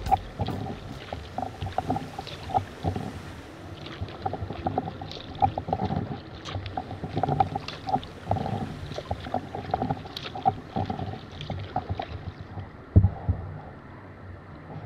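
Kayak paddle strokes dipping and splashing in calm sea water, with irregular drips and trickles; a single louder thump near the end.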